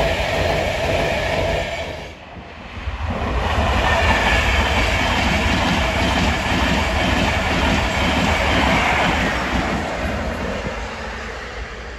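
Passenger train hauled by a Class 91 electric locomotive rolling past, its coach wheels running steadily on the rails. The sound drops out briefly about two seconds in, then a second passing train takes over and fades near the end.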